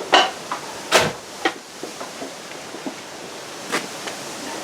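Handling noise while working at the tire: a few sharp clicks and knocks, the loudest near the start and about a second in, over a steady hiss.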